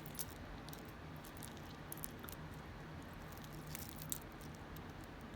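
Faint, light clicks and taps of costume jewelry pieces being handled and sorted, over a steady low hum.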